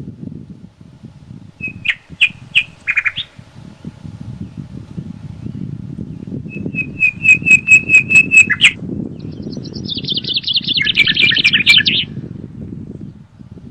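Songbird calls over a steady rush of wind in forest: a few short notes about two seconds in, then a run of about a dozen evenly spaced whistled notes growing louder, then a fast, high chattering trill that stops about twelve seconds in.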